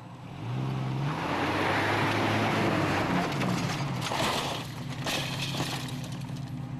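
A 1987 Jeep Cherokee's engine revs up as the Jeep drives forward, rising in pitch about half a second in. The Jeep's bumper hits a refrigerator, which makes a crash about four seconds in and another a second later.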